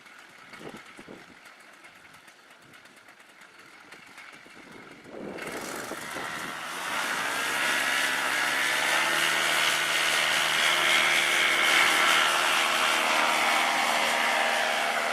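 Paramotor's small two-stroke engine and propeller: quiet wind noise at first, then the engine comes in about five seconds in, its pitch climbing over the next two seconds before it runs steadily at high throttle.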